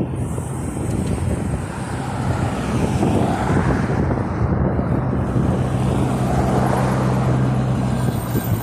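Strong wind buffeting the microphone in a dense rumble. A steady low engine-like hum runs underneath and grows stronger in the second half.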